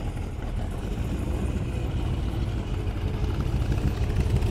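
A car's engine running as it moves off, growing louder toward the end.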